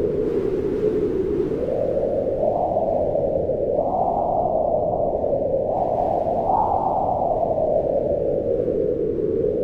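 Wind howling in steady gusts, a rushing noise with a hollow whistling pitch that climbs a couple of seconds in, peaks twice, and sinks again near the end.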